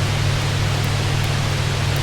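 Heavy rain on a roof: a steady, even hiss with a constant low drone underneath. Faint fireplace crackles tick now and then.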